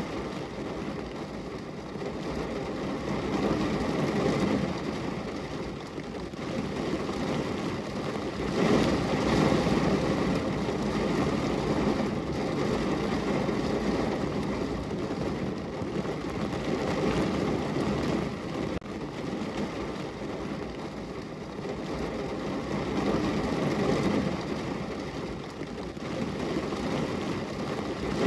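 Rain on a window glass: a steady rushing noise with a low rumble that swells and eases every few seconds.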